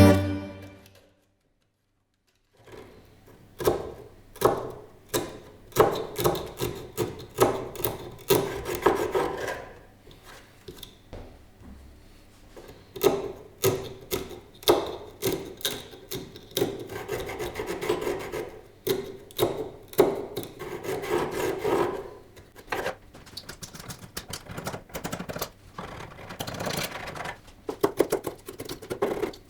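Rough abrasive hand strokes on a wooden speaker cabinet, one to two strokes a second with short pauses, starting a couple of seconds in after the music ends.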